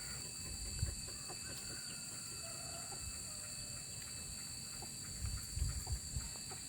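Rural outdoor ambience: a steady high insect drone with faint chicken calls, and a few dull low thumps about a second in and again between five and six seconds.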